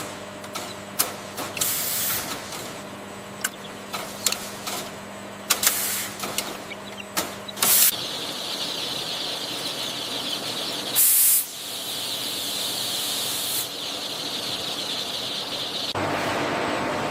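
Machinery running with a steady hum, with scattered clicks and knocks over the first half, then a steady hiss with a short, louder burst about eleven seconds in.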